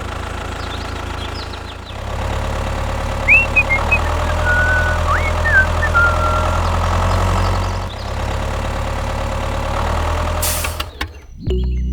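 Mini tractor's engine running steadily, growing louder about two seconds in and easing off about eight seconds in, with a few short high squeaks in the middle. It cuts off suddenly near the end.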